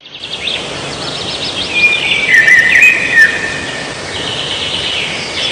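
Birds chirping: quick rising chirps and short whistled notes, busiest in the middle, over a steady hiss-like background.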